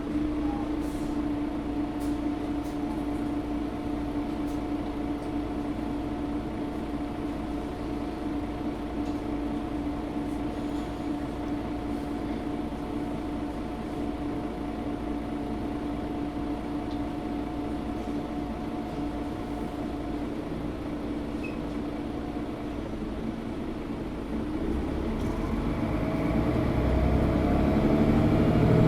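Mercedes-Benz O530 Citaro G articulated bus heard from inside the cabin: a steady hum while the bus stands still. Near the end the engine builds up with rising pitch as the bus pulls away.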